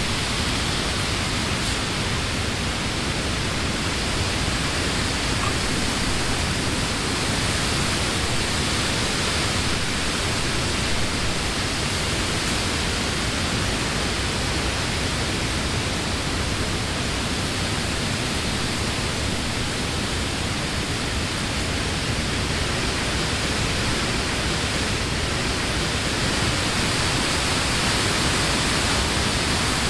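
Wind blowing steadily through the leaves of trees, a dense even rushing with no gusts or breaks.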